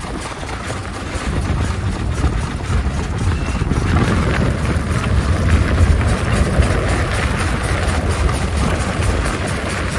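1901 Curved Dash Oldsmobile's single-cylinder engine running steadily, getting louder about four seconds in.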